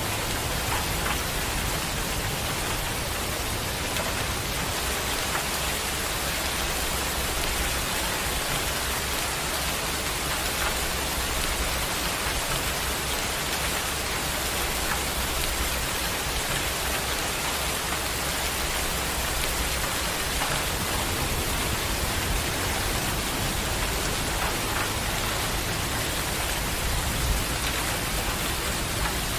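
Heavy rain falling steadily, an even, unbroken hiss of rain with a few individual drops ticking through it.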